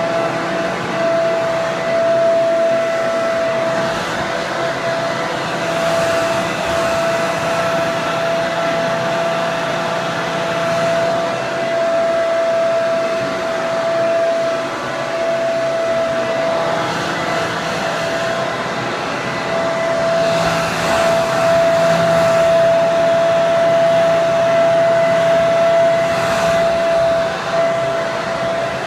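Electric hair dryer running continuously: a steady rush of air with a high motor whine held at one pitch.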